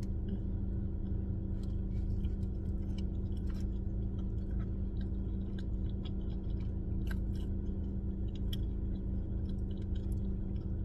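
A person chewing a chili cheese dog close to the microphone, with scattered soft mouth clicks and smacks, over a steady low hum from the parked car.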